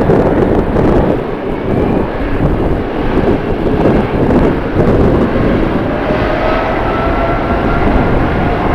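Airliner jet engines running, with a faint whine rising slowly in pitch from about halfway through, under heavy wind buffeting on the microphone.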